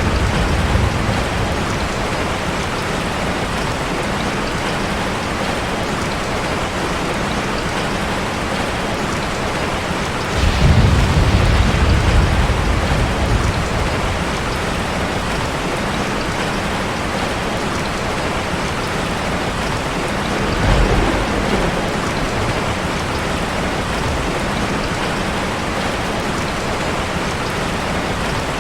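Steady heavy rain drumming on a car, with low rolls of thunder near the start, about ten seconds in and again about twenty seconds in.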